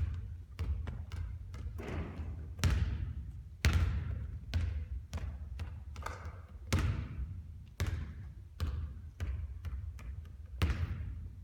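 Basketballs bouncing on a court during three-point shooting practice: a string of irregular thuds, some much louder than others, each with a short ringing tail.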